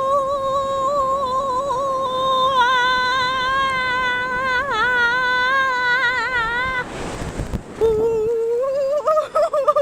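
A person singing one long held note, steady at first and then wavering with vibrato, which stops about seven seconds in; after a short break a second, lower note slides up and is held.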